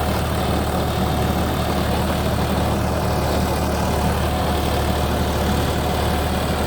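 John Deere 5310 tractor's 55 hp three-cylinder diesel engine running steadily with an even low drone.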